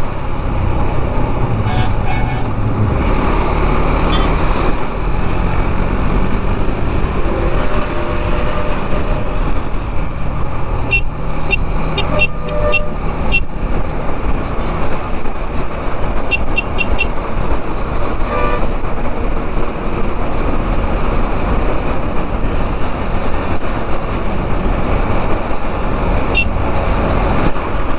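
KTM Duke 390's single-cylinder engine running under way, with steady wind and road noise and its pitch rising and falling through the gears. A few short horn toots from traffic come about halfway through, again a few seconds later, and once near the end.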